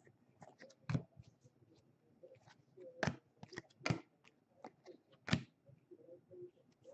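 Trading card packs and cards being handled at a table: a series of sharp crinkles and clicks, with the loudest about a second in, near three and four seconds, and just after five seconds.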